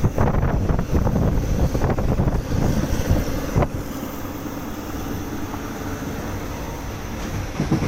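Passenger train carriage running along the track: a steady low rumble of the wheels with wind buffeting the microphone, scattered knocks and a sharp knock about three and a half seconds in.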